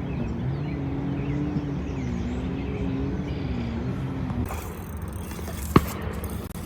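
A distant motor hums steadily with its pitch slowly wavering, then dies away a little past halfway. Near the end comes a single sharp click.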